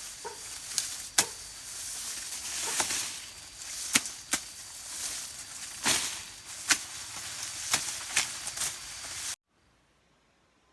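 A blade chopping elephant grass stalks: about nine sharp, irregularly spaced cuts over rustling leaves. The sound stops abruptly about nine seconds in.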